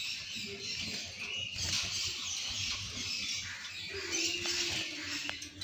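A group of caged canaries and finches chirping and twittering, a dense, continuous chatter of high, squeaky notes.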